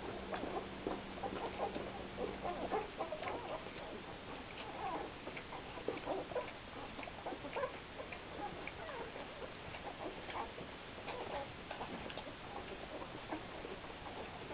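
Litter of nine-day-old Greater Swiss Mountain Dog puppies squeaking and whimpering, many short, high cries overlapping. A low steady hum stops about three seconds in.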